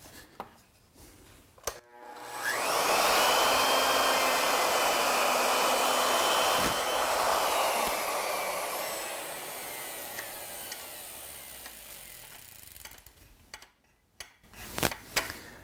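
Router motor switched on about two seconds in, whining up to full speed and running steadily for about five seconds as it machines a flat with a surface planing bit, then switched off and winding down with a falling whine. A few light clicks come before and after.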